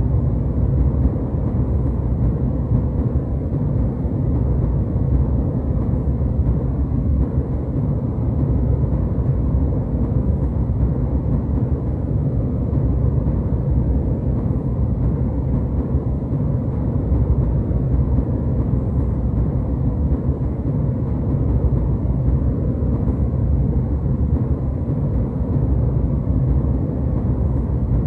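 Jet airliner cabin noise in flight: a steady low rumble of engines and airflow.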